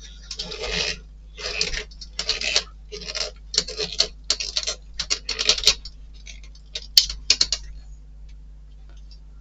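Hands working on a model kit: a run of short scrapes and clicks, about one or two a second, that stops a little before the end.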